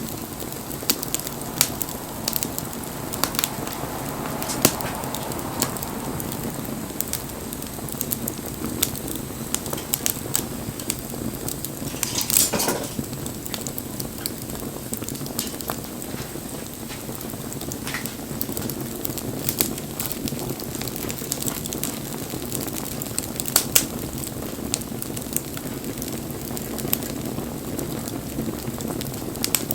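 Wood bonfire burning: a steady rush of flame with frequent sharp crackles and pops, one louder burst of crackling about twelve seconds in and another sharp pop about two-thirds of the way through.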